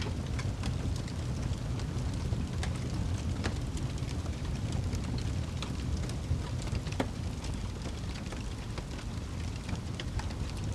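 Wood fire crackling, with frequent small sharp pops and snaps scattered irregularly over a steady low rumble.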